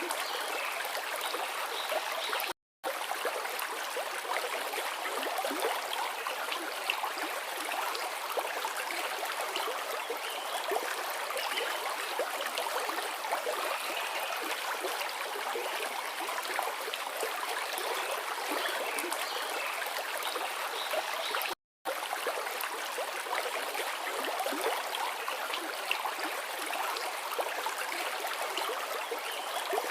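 Forest river flowing over rocks: a steady babble of running water, cutting out twice for a split second.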